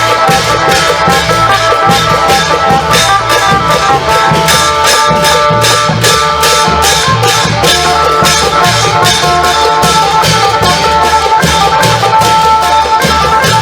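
Isan klong yao long-drum band with an amplified phin (plucked lute) playing a melody over a steady quick beat of about four strikes a second and low drum beats.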